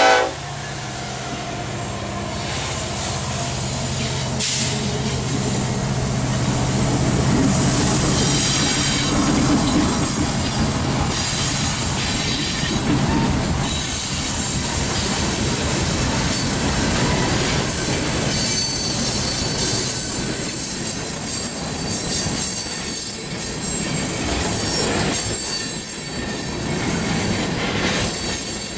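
A freight train passing close by. A locomotive horn cuts off just as it begins. The trailing diesel locomotives' engines drone for about the first ten seconds, then loaded tank cars roll by with steady wheel-on-rail clatter and thin high flange squeal on the curve.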